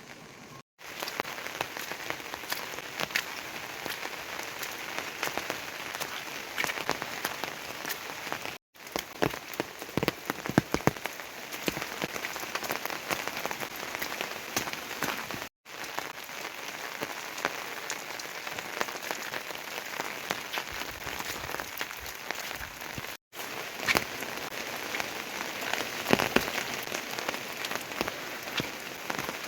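Steady rain falling, with many individual drops heard as sharp ticks over an even hiss. It breaks off for a moment four times.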